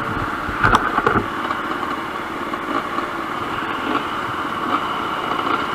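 Enduro motorcycle engine running steadily, with a couple of brief knocks about a second in.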